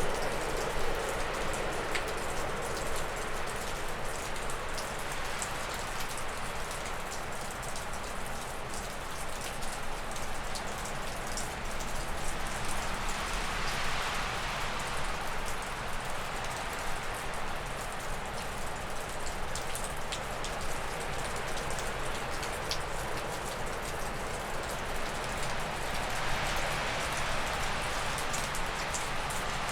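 Gusty wind blowing through spruce and birch trees, swelling about halfway through and again near the end. Meltwater dripping off a roof adds scattered ticks.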